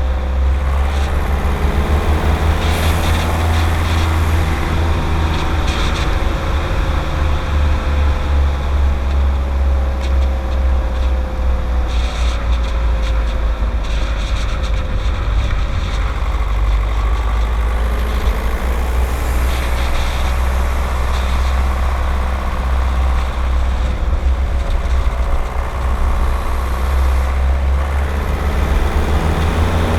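Skoda Octavia 1.9 TDI four-cylinder turbodiesel engine running while driving, over a heavy low rumble. Its pitch falls slowly, then rises again near the end as the revs change.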